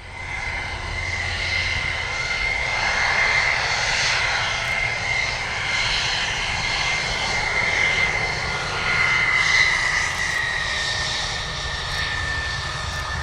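F-16 fighter jet's engine, a continuous roar with a high whine that drops slightly in pitch about ten seconds in.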